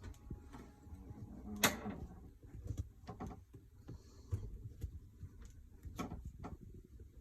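Scattered light clicks and knocks of small parts and tools being handled while an RC truck is taken apart, with one sharper click about two seconds in.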